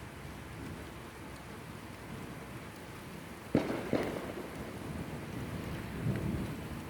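Thunderstorm: steady rain, with a sudden thunderclap about halfway through, a second crack right after it, and a low rumble of thunder near the end.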